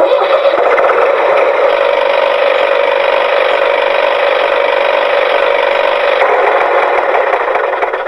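A small motor running steadily with a hum and a fast, even rattle. It starts and cuts off abruptly.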